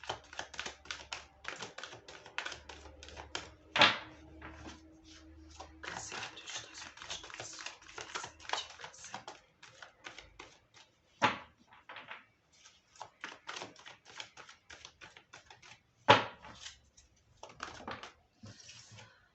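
A deck of tarot cards being shuffled by hand: a dense, rapid run of papery card clicks, with three louder sharp taps spread through it, as of the deck knocked on the table.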